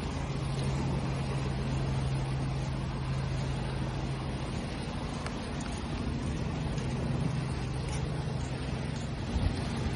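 Steady rushing wash of sea waves under a continuous low, motor-like hum, with a brief knock about nine and a half seconds in.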